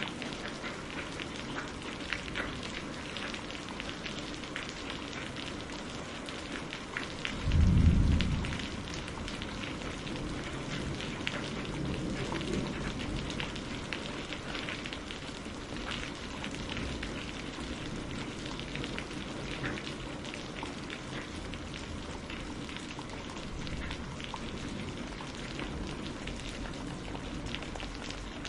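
Steady rain with many distinct drop hits. A short low rumble of thunder comes about seven and a half seconds in and is the loudest moment, with a softer rumble a few seconds later.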